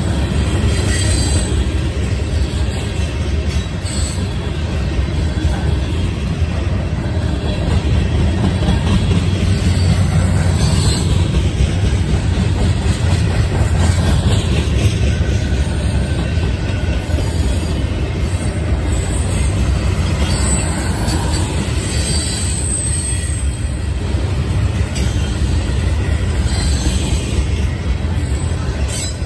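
CSX freight train's cars rolling past close by: a steady heavy rumble of steel wheels on the rails, with occasional high wheel squeal.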